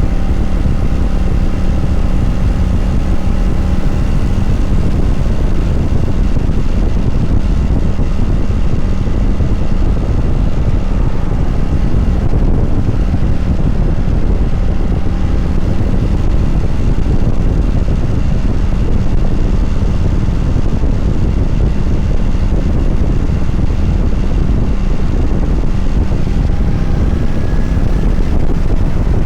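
2022 Kawasaki Vulcan 900 Classic LT's V-twin engine running at a steady cruise under a low, steady rush of wind and road noise.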